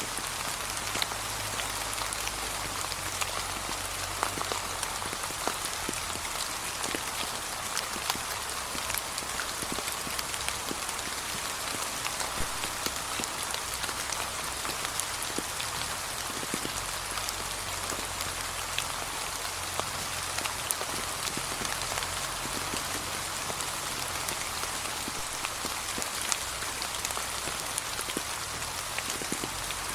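Steady gentle rain falling on a path, a constant patter with many small drop ticks and no change in strength.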